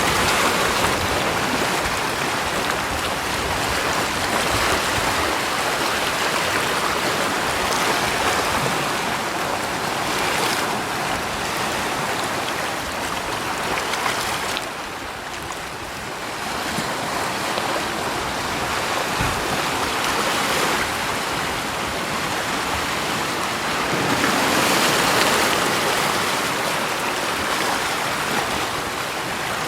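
Rushing water: a continuous hiss that swells and eases slowly, softening briefly about halfway through.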